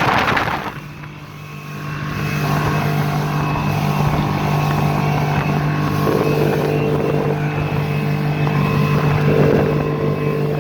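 Honda BF50 four-stroke outboard motor running steadily at high revs, driving the boat on the plane. A short rush of noise comes at the very start, and the engine sound dips for about a second before returning to its steady drone.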